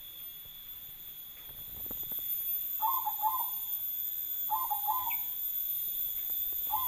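A bird calling in the background: a short run of quick hooting notes, repeated three times at even intervals, over a steady high-pitched whine.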